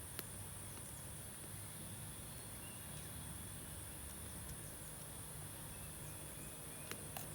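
Steady high-pitched insect chirring, with a few sharp clicks just after the start and twice near the end.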